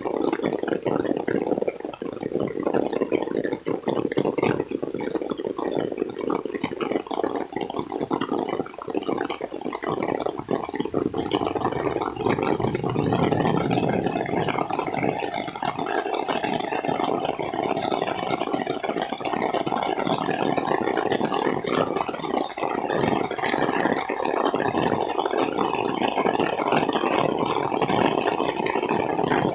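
Heavy rain falling steadily, a dense, even crackling noise.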